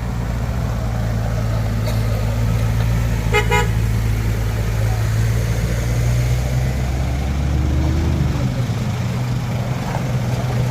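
Heavy vehicle engines running steadily, with a short horn toot about three and a half seconds in; the deepest engine note drops away a little past the eight-second mark.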